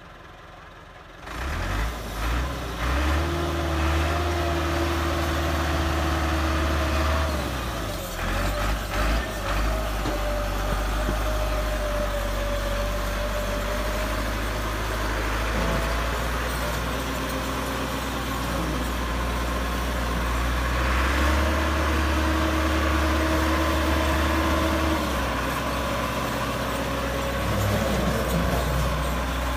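Massey Ferguson tractor's diesel engine running hard, coming up loud about a second in, its pitch shifting up and down a little as the load changes.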